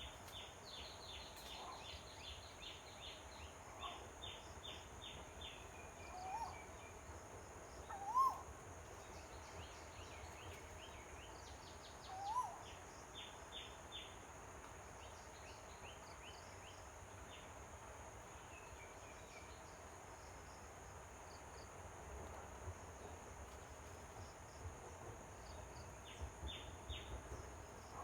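Asian koel giving its hooting, upward-sliding call, a single note every few seconds. Behind it are quick runs of high chirps and a steady high insect drone.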